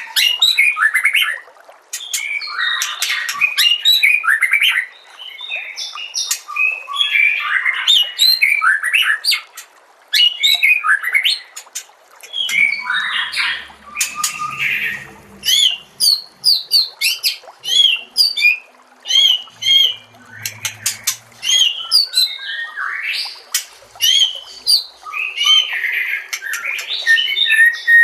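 Songbird song in quick, varied phrases of sharp chirps, whistled sweeps and rattling trills, broken by short pauses: a recorded masteran birdsong track of the kind played to train caged murai batu.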